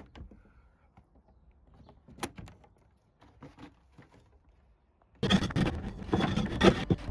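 Chicken coop being cleaned out: a few faint knocks and taps, then about five seconds in a loud, continuous scraping and rustling begins as old bedding is scraped out.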